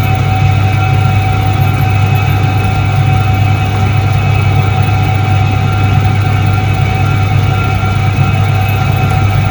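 1978 ISET-3 Soviet washing machine running: a steady low electric-motor hum with a constant higher whine over it, unchanging throughout.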